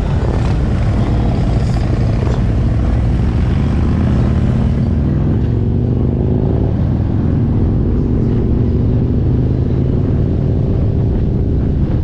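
Motorcycle engine running steadily under load, its pitch climbing about halfway through as the bike speeds up.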